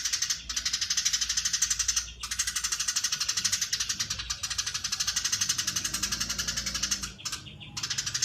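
Eurasian tree sparrow giving a long, dense chattering trill: runs of very fast, buzzy notes broken by brief pauses, the longest pause about seven seconds in.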